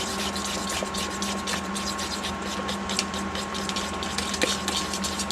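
Egg, flour and milk batter being stirred in a bowl: quick irregular clicks and wet sloshing over a steady hum.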